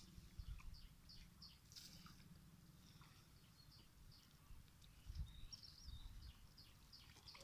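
Near silence: faint small-bird chirps repeating again and again, over a low muffled rumble that swells a few times.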